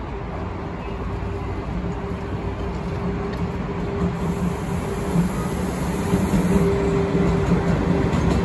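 A train running at the station, a steady mechanical hum over a rumbling noise, growing gradually louder.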